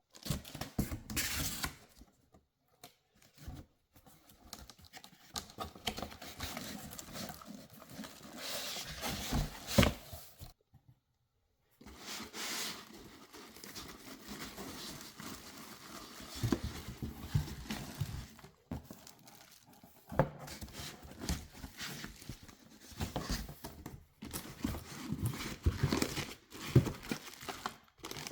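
Packaging being opened and handled: paper and plastic crinkling and tearing, and cardboard rustling, with irregular sharp knocks, the loudest a little before halfway.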